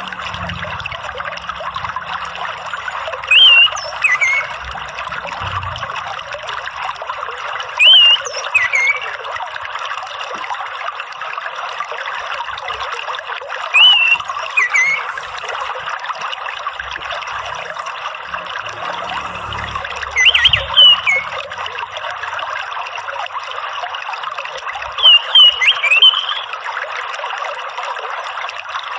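Orange-headed thrush singing short, loud whistled phrases, five of them a few seconds apart, over a steady rush of running water.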